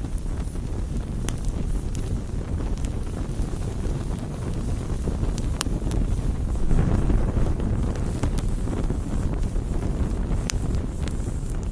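Wood campfire burning: a steady low rumble with scattered sharp crackles and pops. The rumble swells briefly about seven seconds in.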